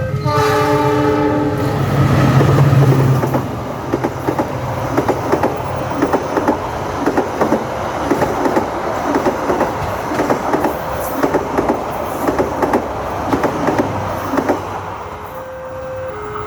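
A passing Indonesian train: a chord-like horn blast, then the loud rumble of the diesel locomotive, then a steady rhythm of wheel clacks as the carriages roll over the rail joints. Near the end, a level-crossing siren's electronic tones start up.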